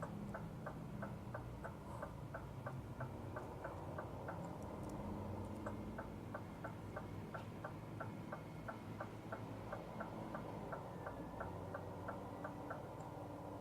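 Cab turn-signal indicator ticking steadily, about three to four clicks a second, stopping for about a second partway through and then starting again, over the low drone of a Scania R450 truck's inline-six diesel engine.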